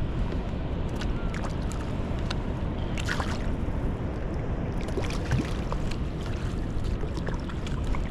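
Steady low rushing of wind on the microphone and water below an open dam, with scattered small clicks and knocks of handling in a kayak.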